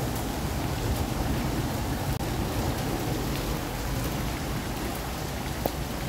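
Heavy monsoon rain falling steadily and splashing on wet stone paving, with a low rumble underneath.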